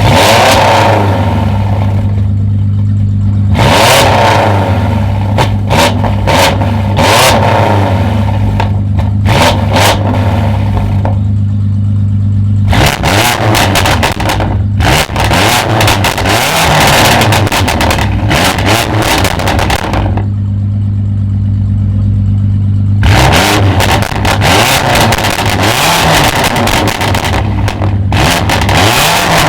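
Tuned performance car's engine revved repeatedly in several long bouts of blips over a steady idle. Its exhaust gives many sharp cracks and pops during the revs.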